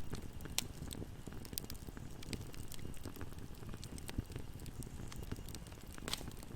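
Wood fire in a fireplace crackling: a steady low rumble of burning, with irregular sharp pops and snaps scattered throughout, a small cluster of them about six seconds in.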